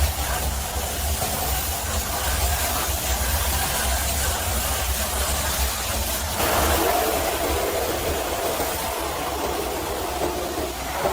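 High-pressure water spray hissing over a steady low engine hum. About six seconds in, the spray gets louder and brighter.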